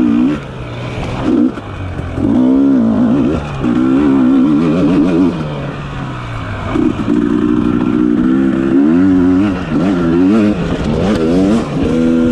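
Dirt bike engine revving up and down as the rider goes on and off the throttle, in repeated surges with short drops between them.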